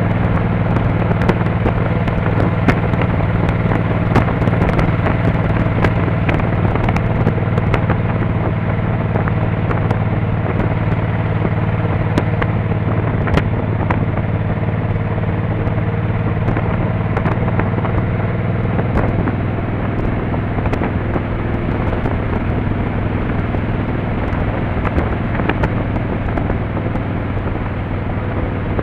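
Motorcycle engine running steadily while riding at cruising speed, with wind and road noise.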